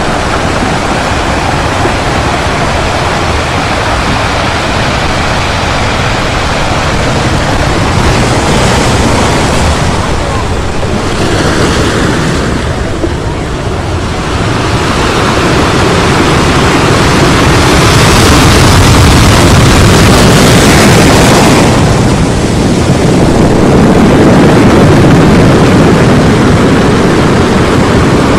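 Loud, steady rushing noise, like surf or wind, that swells and eases slowly over several seconds at a time: the masking sound of a subliminal audio track.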